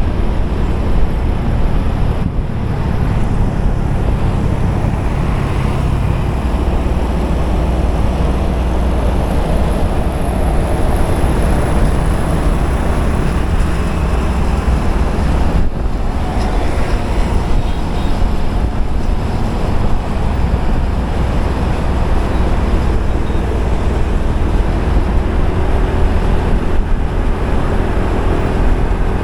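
Riding a motorcycle in road traffic: heavy, steady wind rumble on the microphone over the motorbike's running engine and the noise of surrounding traffic.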